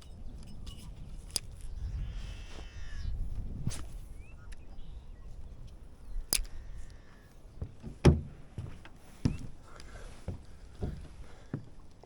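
Scattered knocks and clicks, the loudest about eight seconds in, over a low rumble.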